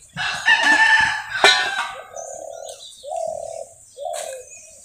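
Birds calling: one loud, drawn-out call lasting about a second and a half, then three shorter, lower calls about a second apart.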